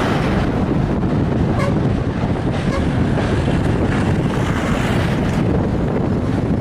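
Steady wind buffeting the microphone over a continuous low rumble.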